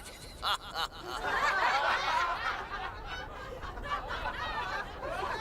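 A crowd laughing and chuckling, swelling about a second in and then tailing off.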